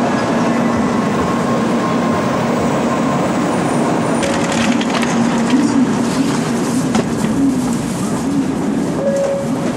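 Train running: a steady rumble with a wavering motor hum. About four seconds in, crackling and clattering clicks join it.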